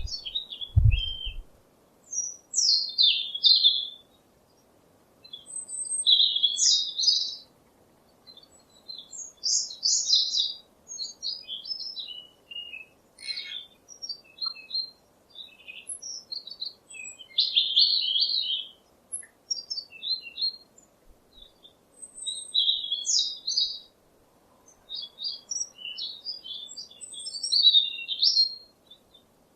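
Songbirds singing in a forest, short chirping phrases every second or two with brief pauses between them. A brief low thump comes just under a second in.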